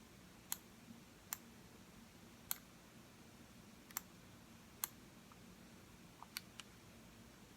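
Computer mouse button clicks, single sharp clicks spaced irregularly about a second apart, with a quick run of three near the end.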